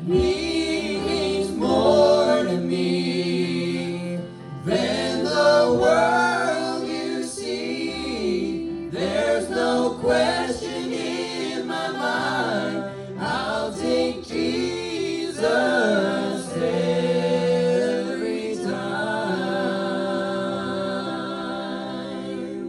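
A small group of voices singing a gospel song together in harmony, stopping at the very end.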